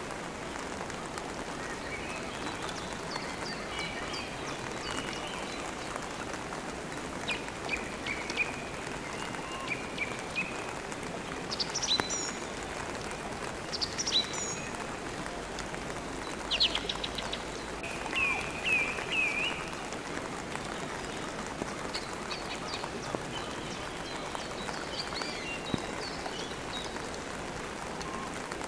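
Steady rain falling, with birds chirping through it; short bursts of quick chirps come and go, the loudest around the middle.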